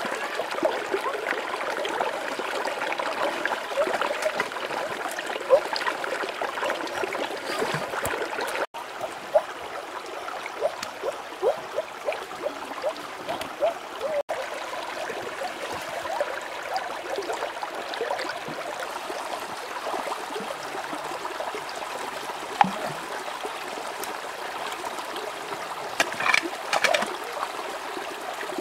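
Shallow river water running and trickling, with a steady gurgle. It cuts out briefly twice, about nine and fourteen seconds in.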